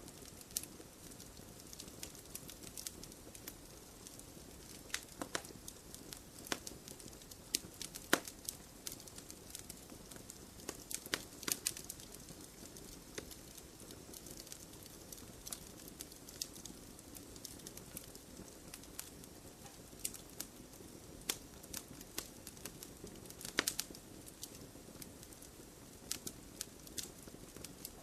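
Campfire crackling: scattered sharp pops and snaps over a steady low hiss of the burning fire. A cluster of louder snaps comes a little before the middle, and another near the end.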